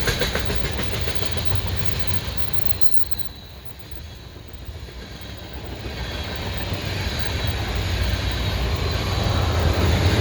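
CSX manifest freight train's cars rolling past, wheels clacking over rail joints over a low rumble. The sound falls away about three seconds in, then builds back up toward the end.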